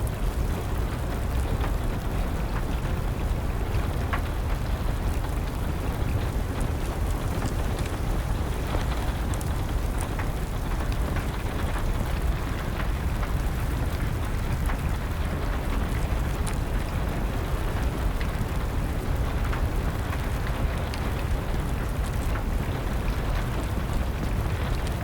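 Steady rain noise with a strong low rumble, dotted with scattered small crackles and pops of a burning wood fire.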